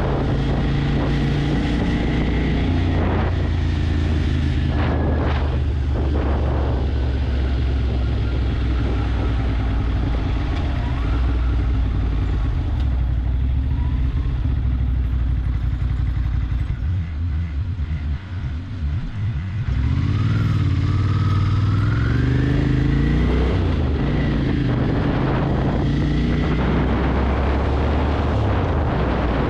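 Motorcycle engine running steadily, with a rush of road or wind noise. It eases off about two-thirds of the way through, then picks up again with rising engine pitch as it accelerates.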